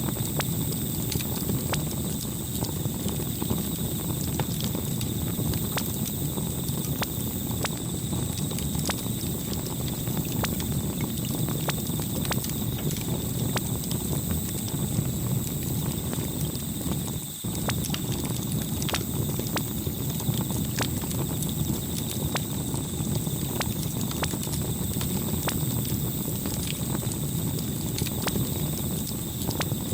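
Wood fire crackling: irregular sharp pops and snaps over a steady low rumble of burning, with a brief dip in level a little past halfway.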